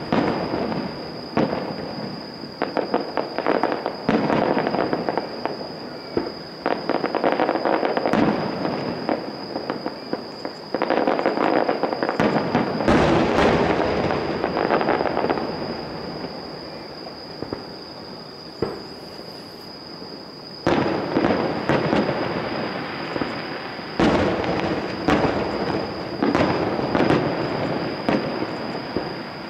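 Aerial fireworks shells bursting in quick succession: sharp booms with echoing tails and dense crackle. The bursts thin out in the middle and come back heavily about two-thirds of the way in. A steady faint high tone runs underneath.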